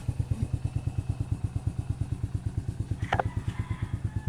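Yamaha Crypton R motorcycle's single-cylinder four-stroke engine idling with an even beat of about eight pulses a second, running on a new piston in a rebored cylinder with the hammering knock gone. A brief sharp clink about three seconds in.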